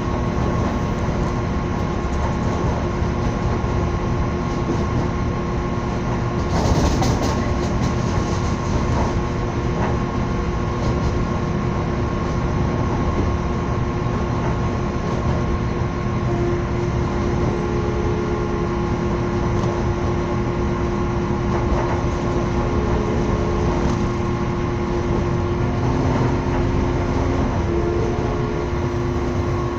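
Train running along the line, heard from on board: a steady rumble of wheels on track with a constant drone. A brief louder hiss comes about seven seconds in.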